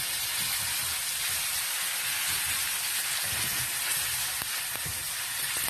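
Kimchi frying in rendered pork belly fat in a pan: a steady, even sizzle.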